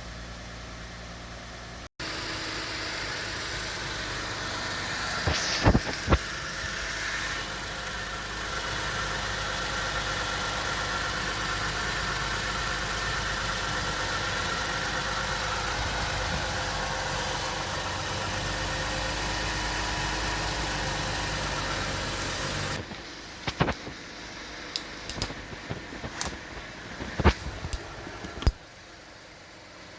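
A 2006 Lexus GS300's 3.0-litre V6 engine and exhaust running steadily for about twenty seconds, with two sharp clicks early on; it then drops away and a run of scattered clicks and knocks follows.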